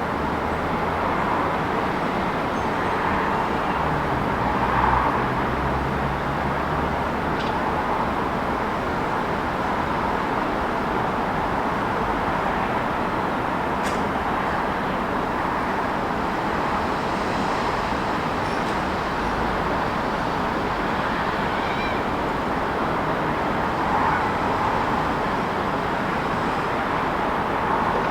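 Steady city street traffic: a continuous wash of passing cars and engines, with a lower engine hum swelling about five seconds in and a few faint clicks.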